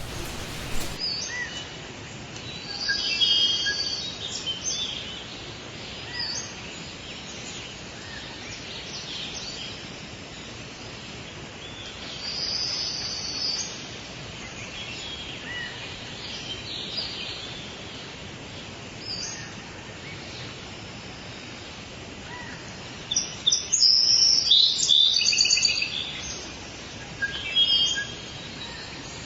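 Wild birds chirping and singing in a stretch of forest ambience, many short high calls over a steady background hiss. The calls come in busier clusters a few seconds in, around the middle and most loudly near the end.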